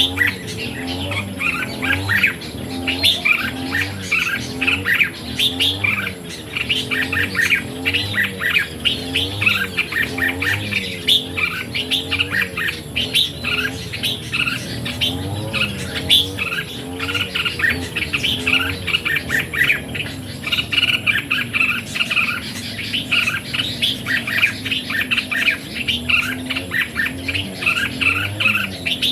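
Red-whiskered bulbuls singing and calling without pause: quick, bright chirping phrases one after another, over a low wavering hum.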